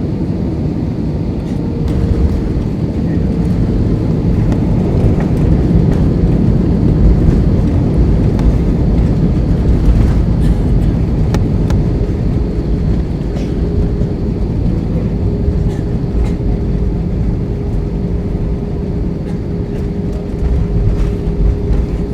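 Cabin noise of an Airbus A320 with IAE engines during landing: a loud, heavy low rumble with a steady engine tone. It builds about two seconds in, is loudest in the middle, and eases off through the second half.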